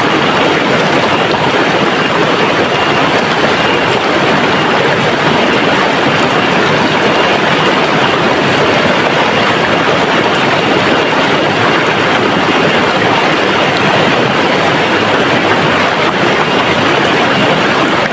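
River water rushing and flowing in a loud, unbroken wash.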